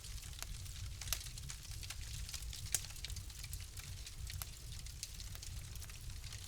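Wood fire in a fireplace crackling, with irregular sharp pops. Two louder pops come about a second in and near three seconds. Under them runs a low steady rumble.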